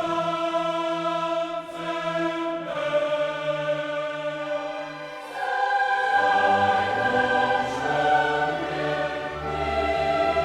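Choral music: voices singing long held chords, moving to a new chord about three seconds in and again about six seconds in.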